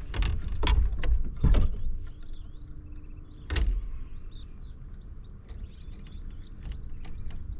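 Several knocks and thumps from handling on a fishing kayak, bunched in the first two seconds with one more about three and a half seconds in. Birds chirp in the background.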